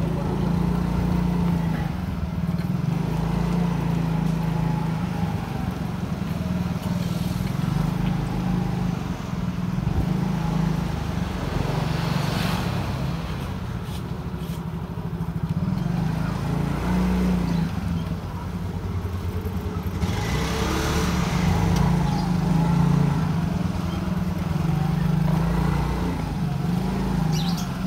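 Motorcycle engine running steadily on the move, its pitch rising and falling with the throttle. A rush of noise swells briefly about midway and again about two-thirds in.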